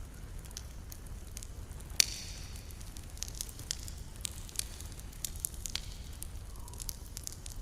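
Campfire crackling: a scatter of small sharp pops from burning wood, with one louder pop about two seconds in, over a low steady rumble.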